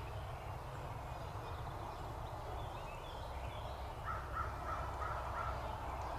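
Distant wild turkey calling: a quick series of about five short, evenly spaced notes, over a low steady rumble.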